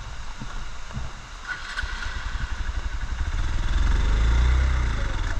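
Single-cylinder motorcycle engine running in a low, pulsing beat, revving up to its loudest about four seconds in and then easing off.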